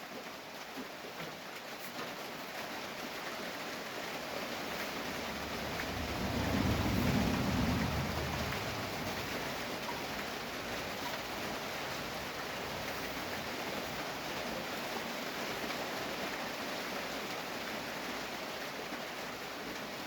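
Steady rain hiss, with a low rumble that swells and fades about six to eight seconds in.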